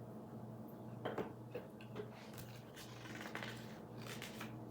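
Small plastic building bricks clicking and rustling as they are handled and fitted, in short irregular taps, over a faint steady hum.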